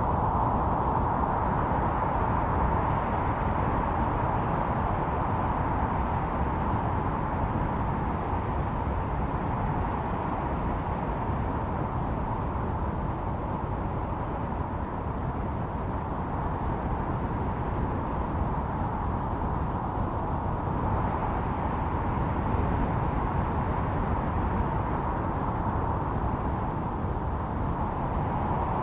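Snowstorm wind howling in a continuous rush, strongest in a mid-pitched band. It eases through the middle and builds again toward the end.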